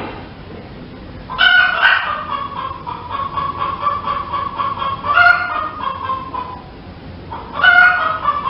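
Hen cackling: loud, harsh calls about a second and a half in, again about five seconds in and near the end, with quieter repeated clucking between them.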